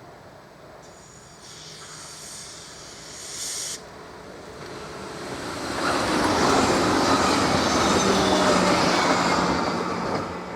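S-Bahn electric train: a high-pitched squeal for about three seconds that cuts off abruptly, then the train's running noise swelling loud for about four seconds and easing off near the end.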